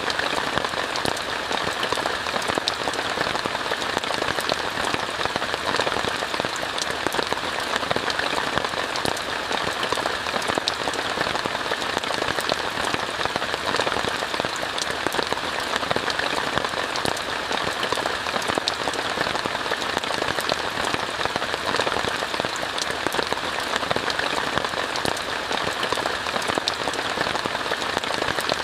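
Steady rain on a tent, an even hiss of rainfall with many separate small drop ticks through it, unchanging throughout.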